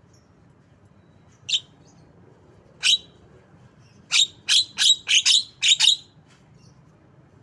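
Javan myna (jalak kebo) giving sharp, short calls: one, a pause, another, then a rapid run of about seven between about four and six seconds in.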